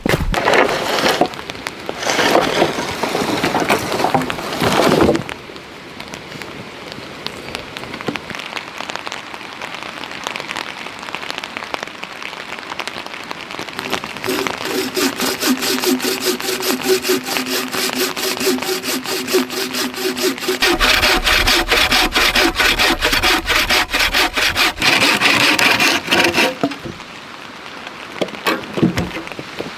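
Wood being sawn by hand: rough strokes at first, then a long run of fast, even back-and-forth strokes with a ringing note from the blade, which stops a few seconds before the end.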